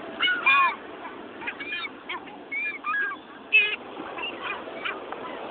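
Several gulls calling over one another in short squawks and mews, loudest in the first second and again about three and a half seconds in.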